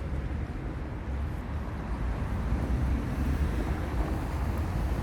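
Outdoor city street noise: a steady low rumble of traffic, with wind on the phone's microphone.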